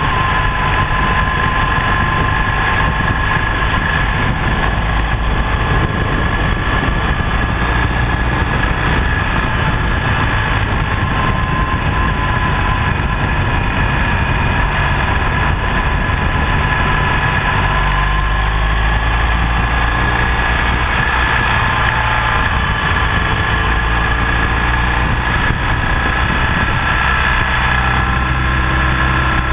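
BMW R1200GS LC motorcycle's liquid-cooled boxer-twin engine running on the move. The engine note changes a few times, and a steady high whine and rushing air sit over it.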